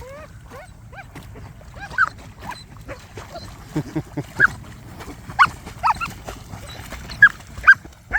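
A dog whining and yipping in a string of short, high-pitched cries, more frequent in the second half.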